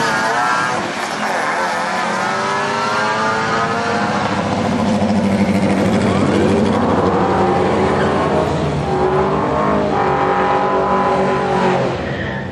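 Holden VZ Calais's 6.0-litre V8 and a second car accelerating hard down a drag strip. The engines rev up through the gears, climbing in pitch and dropping back at each shift.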